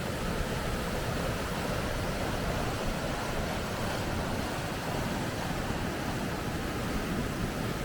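Rapids: water rushing steadily over rocks, an even, unbroken noise.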